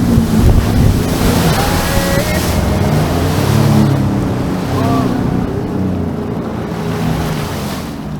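Sea-Doo Fish Pro jet ski under way: the engine note dips and rises over rushing water spray and wind. The rushing eases after about five seconds as the ski slows.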